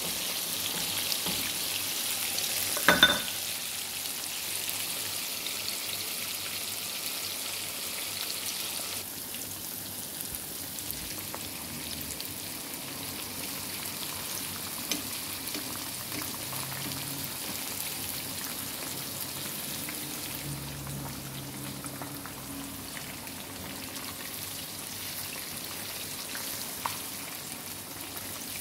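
Breaded chicken tenders deep-frying in a pan of hot oil: a steady sizzling hiss that gets somewhat softer about nine seconds in. One sharp clink with a brief ring comes about three seconds in.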